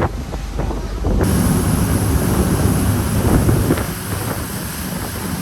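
Wind buffeting the microphone over a jet-drive tour boat running at speed across open water. The sound jumps suddenly louder about a second in.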